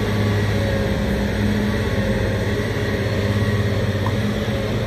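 Heavy truck's diesel engine running steadily: a low, even hum with a fainter, slightly wavering whine above it.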